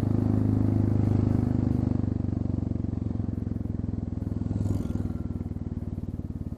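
Royal Enfield Classic 350's single-cylinder engine running steadily at low revs through an exhaust with the muffler tip removed and only the small catalytic converter left, giving an open-pipe sound. It fades slowly with a brief swell a little before the end.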